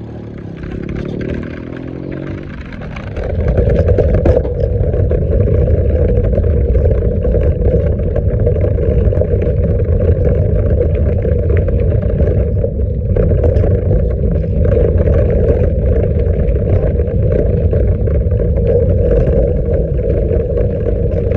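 Motorcycle running. The sound is softer and wavering at first, then gets louder about three seconds in and holds at a steady rumble.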